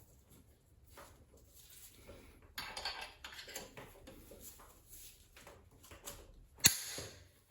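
Metal tools and engine parts clinking and rattling during hand work, with one sharp metallic knock near the end.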